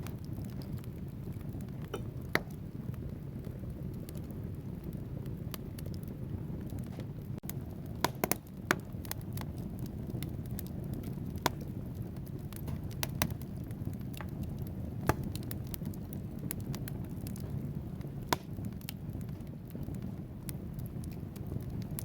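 Wood fire burning in a fireplace: a steady low rumble of the flames with logs crackling and popping at irregular intervals, a cluster of sharp pops about eight seconds in.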